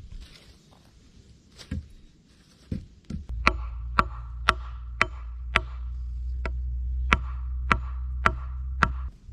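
Repeated sharp strikes of a tool on wood, about two a second, starting about three seconds in. Under them runs a steady low hum that starts and stops suddenly with the strikes.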